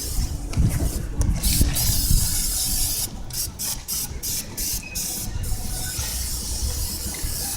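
Spray-on cleaning wax hissing from a hand-held spray onto car paint: a steady spray, then several short stop-start bursts about halfway through.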